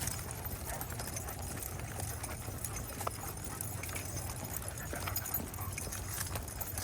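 Footsteps of a walker and his dogs on a path: a steady run of light taps and clicks over a low, constant rumble.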